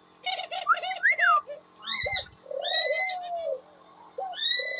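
Male dove bow-cooing in long low coos, mixed with cockatiels calling for attention. About a second in come two rising-and-falling whistles, and short shrill calls follow at about two and three seconds in.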